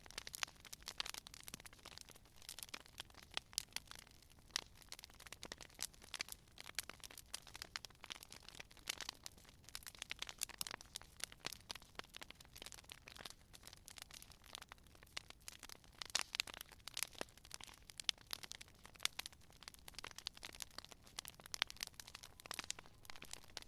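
Wood fire crackling: a steady stream of small, sharp pops and snaps, some a little louder than the rest, over a faint hiss.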